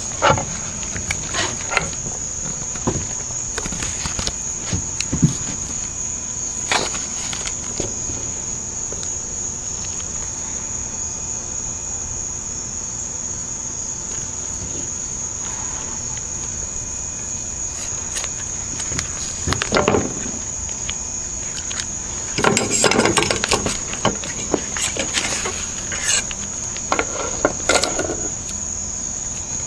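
Steady high-pitched insect chorus trilling without a break, with scattered knocks and rustling handling noises that cluster more thickly about two-thirds of the way through.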